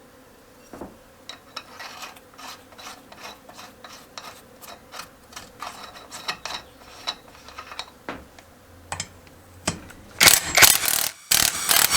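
Hand-tool work on a small engine: a run of regular metallic clicks, about three a second, like a ratchet being worked. About ten seconds in it gives way to louder, rougher metal scraping and clatter.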